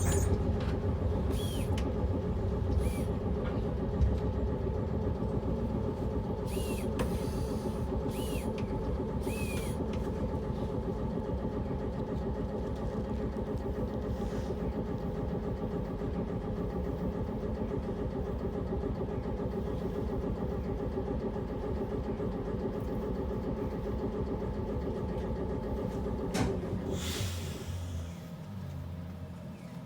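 Sapporo City Tram car 3302, a 3300-series streetcar, with a steady electrical hum and low rumble. There are a few short high squeaks in the first ten seconds and a brief hiss about 27 seconds in, after which the noise drops.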